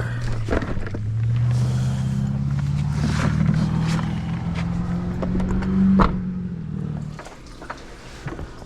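Motor vehicle engine running with a steady hum that rises slightly in pitch about a second in, then dies away about seven seconds in. A sharp knock sounds shortly before it ends.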